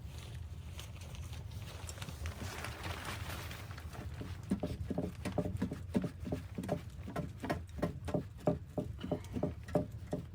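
Footsteps in snow: a quick run of muffled thuds, about three a second, starting about four seconds in, over a steady low rumble.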